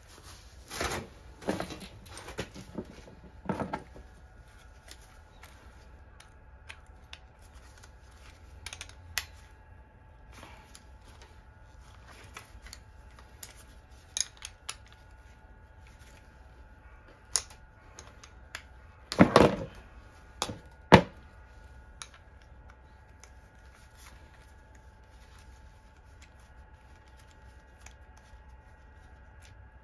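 Scattered clicks, taps and knocks of hand work with tools and small metal parts, with a louder cluster of knocks about two-thirds of the way through.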